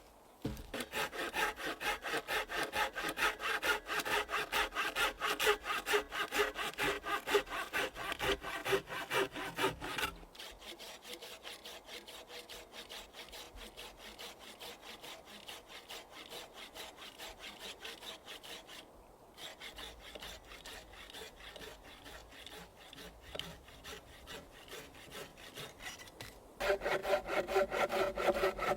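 Hand saw cutting firewood in quick, steady back-and-forth strokes. The strokes are loud for the first ten seconds, quieter through the middle with a brief pause, and loud again near the end.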